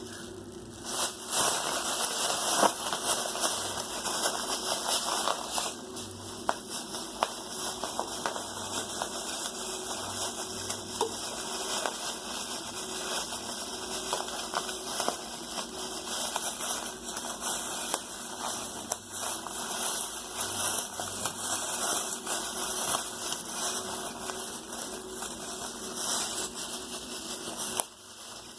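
A thin plastic trash bag crinkling and rustling as it is handled and stuffed with cotton: a continuous irregular crackle that starts about a second in and stops just before the end.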